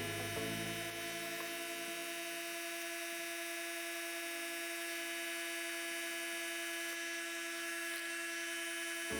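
A steady electric buzz with many overtones, holding one pitch throughout; the deepest part of it drops away about two seconds in.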